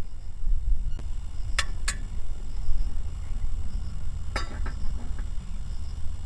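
About six sharp clinks and knocks: two close together early on, a strong one a little past the middle, then a couple of weaker ones. They sound over a steady low rumble.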